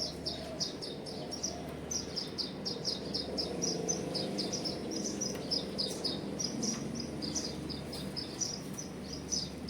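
A small bird chirping rapidly and repeatedly in high, short notes, several a second, over faint low background noise.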